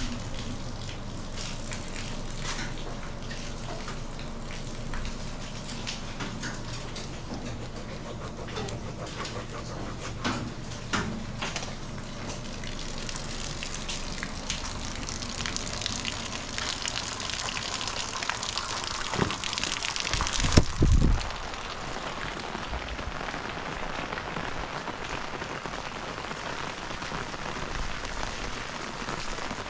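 Steady rain falling, with scattered drips and taps, heavier for a while in the middle. About twenty seconds in comes a brief deep rumble or thump, the loudest sound.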